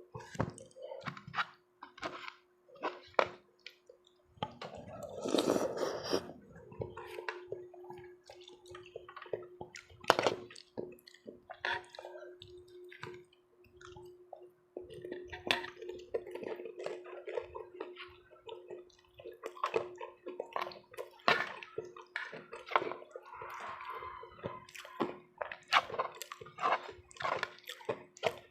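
Close-miked wet chewing and slurping of food, with frequent small utensil clicks and one longer slurp about five seconds in. A faint steady hum runs underneath.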